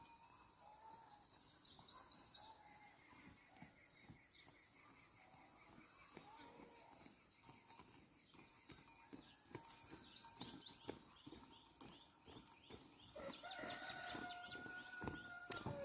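Birds singing: short runs of quick, high, falling notes, heard once a second or so in, again about ten seconds in and near the end, over a faint background.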